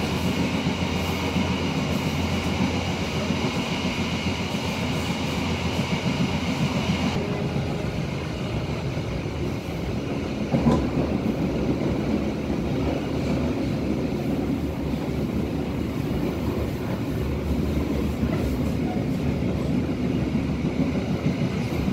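Lokal Merak passenger train running along the line, a steady rumble of the coach with wheel-on-rail noise. About seven seconds in the higher hiss drops away, and a single knock comes about ten and a half seconds in.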